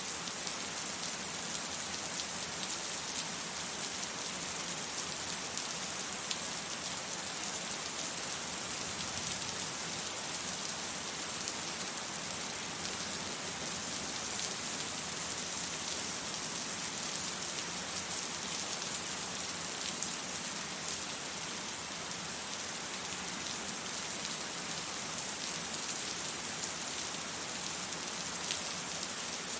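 Steady rain falling, an even hiss with fine patter of drops on surfaces.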